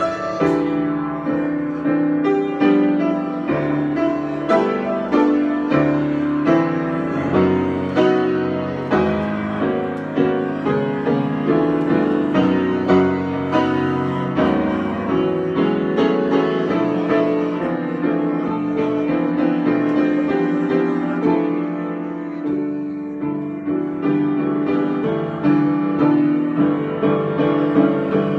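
Piano improvisation: a continuous flow of notes over held low chords, softening briefly about three-quarters of the way through before building again.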